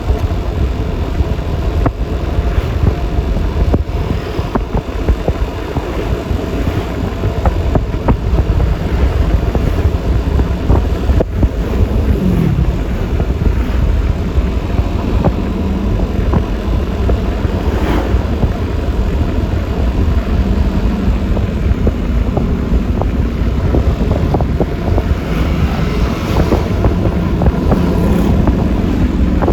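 Road sound from a ride on a Yamaha Lexi LX 155 scooter: its single-cylinder engine running steadily, mixed with wind buffeting on the microphone and road noise. A few brief louder swells come and go.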